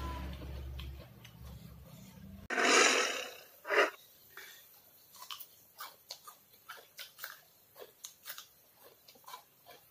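Close-up chewing: a run of short crunches and wet mouth clicks, several a second, as a man eats raw vegetables. Before it a low hum stops suddenly, followed by two loud rushes of noise, the loudest sounds.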